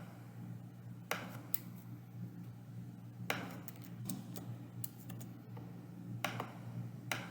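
A few scattered, separate clicks at a computer, keys and mouse being worked while editing code, over a steady low hum.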